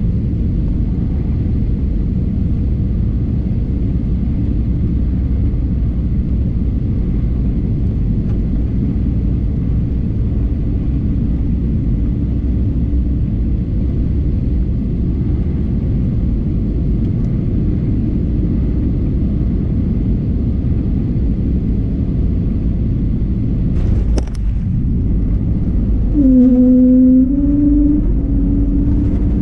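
Steady low cabin rumble of an Airbus A320neo airliner during its landing, with a sharp knock about 24 seconds in and then a short, slightly rising hum for the last few seconds.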